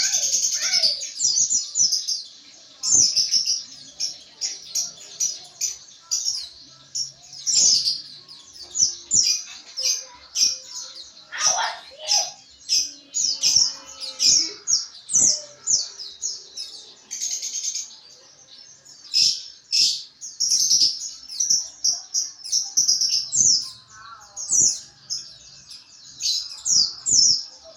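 White-eye (pleci) singing in the rapid chattering 'ngriwik' style: runs of quick, high twittering notes, broken by short pauses.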